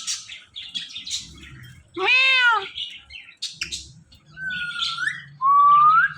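Talking Indian ringneck parrot imitating a cat's meow once, about two seconds in, then giving a few short chirps and two rising whistles near the end.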